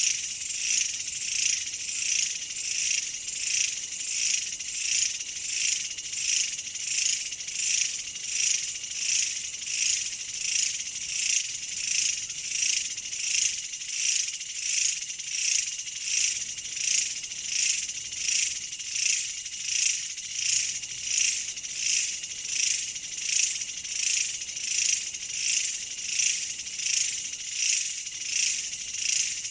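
Chorus of insects singing, a high-pitched buzzing that pulses evenly about one and a half times a second without letting up.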